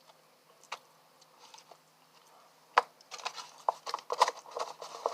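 A person chewing fast food with wet mouth clicks. A few scattered clicks come first, then steady chewing from a little under three seconds in.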